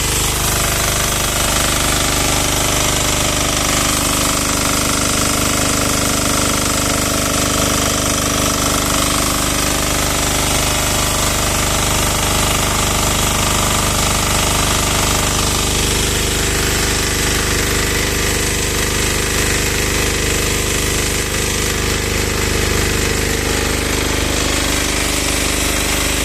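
Lutian 10 hp diesel pressure washer running steadily under load: the diesel engine's rapid knocking beat under a dense hiss that reaches high up.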